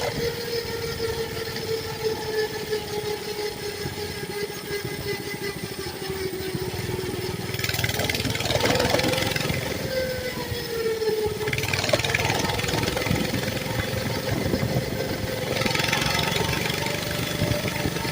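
Mini bike's small engine running at a fairly steady speed while being ridden, its pitch rising slightly in the middle and easing back. Three stretches of rushing noise come and go over it.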